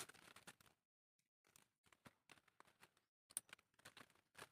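Near silence, with scattered faint clicks and rustles.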